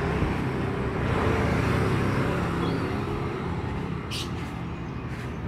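A motor vehicle's engine running steadily amid road traffic noise, with a brief high sound about four seconds in.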